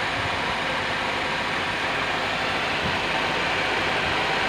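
A four-cylinder, 16-valve car engine idling steadily, heard close up in the open engine bay.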